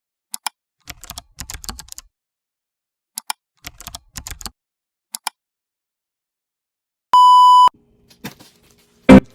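Keyboard typing in several short bursts of clicks, then a single loud electronic beep lasting about half a second, and a sharp hit near the end.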